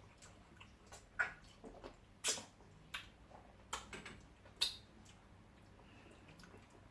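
Close-up eating sounds: several short, wet mouth clicks and smacks scattered a second or so apart while chewing and swallowing fufu with slimy ogbono soup.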